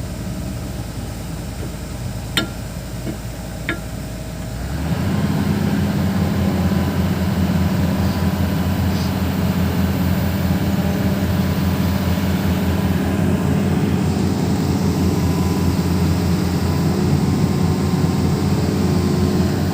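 Hitachi 210 excavator's diesel engine idling, with two light metallic clicks, then throttled up about five seconds in to a louder, steady run.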